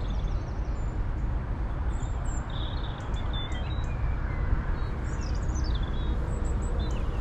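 Small birds chirping now and then in short, high, falling notes over a steady low rumble of outdoor background noise.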